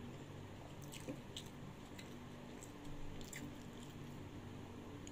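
Close-miked chewing: soft wet mouth sounds of a person eating, with a few short sharp clicks about a second in and again just past three seconds, over a steady low hum.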